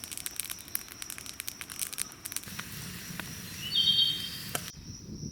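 Water lapping and dripping around a kayak in a light crackle, with a short bird chirp about four seconds in.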